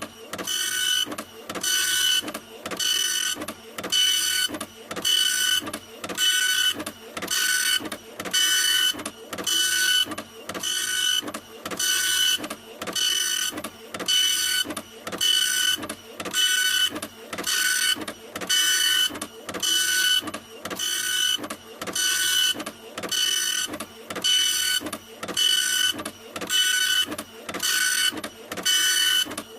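A printer printing: the print head shuttles back and forth in a steady, even rhythm of about three passes every two seconds, each pass carrying a high motor whine.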